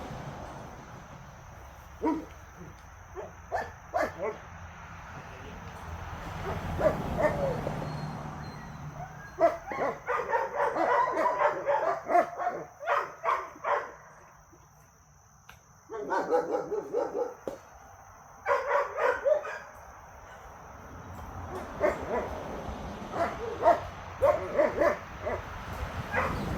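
Dogs barking during play, in several runs of quick barks with short pauses between them.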